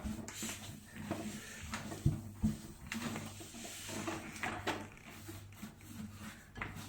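A microwave being wiped down by hand with a wet cloth: faint rubbing with a handful of light knocks and clicks.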